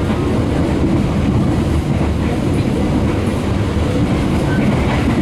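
Passenger train running, heard from inside the coach as a steady, loud low rumble.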